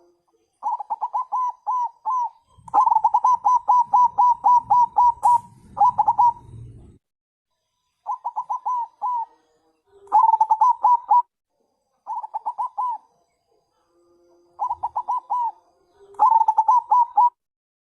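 Zebra dove (perkutut bangkok) calling in repeated bursts of quick, evenly spaced coo notes, about four or five to the second, each burst a second or two long. It is the female's call used as a lure to draw males to answer. A low rumble sits under the calls from about 3 to 7 s in.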